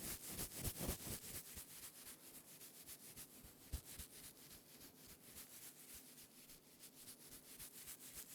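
Stainless steel scourer being rubbed and squeezed close to the microphone: a steady run of fine crinkly crackles, with one sharper crackle nearly four seconds in.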